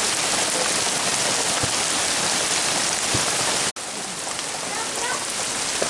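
Heavy rain falling, a steady dense hiss of drops. About two-thirds of the way through it cuts out for an instant and comes back a little quieter.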